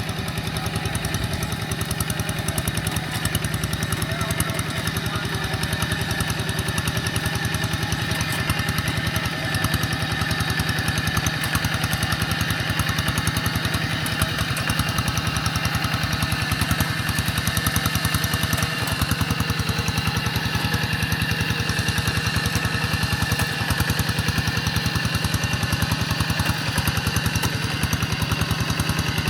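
Quick G1000 walking tractor's single-cylinder diesel engine running steadily while pulling a moldboard plough through wet soil, with a rapid, even chugging throughout.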